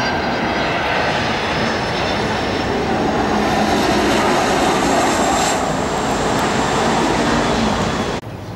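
Jet airliner passing low overhead on landing approach: a loud engine roar with a steady high whine, building to its loudest about halfway through. The sound drops off sharply near the end.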